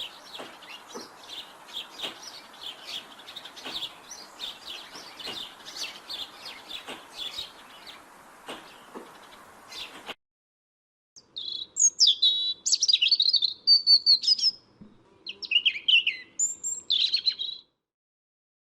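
Robin calling: for about ten seconds, rapid short chirps over a steady outdoor hiss. After a brief break, louder, clearer song phrases come in several separate bursts.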